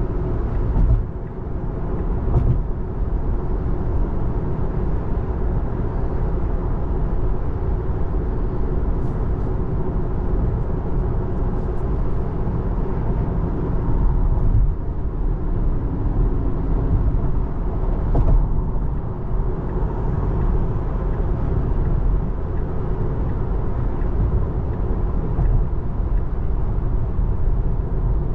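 Steady road and tyre noise heard inside the cabin of a Tesla Model 3 at freeway speed, with no engine sound, as the car is electric.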